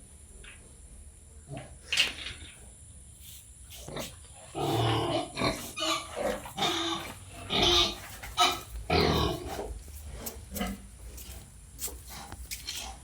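Pigs grunting in a run of short, irregular calls, busiest and loudest from about four to nine and a half seconds in, with a few sharp knocks scattered through.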